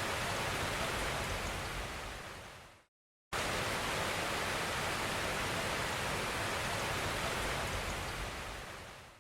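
Steady, even hiss of rain. It fades out about three seconds in, drops to a moment of silence, then cuts straight back in and fades away again at the end.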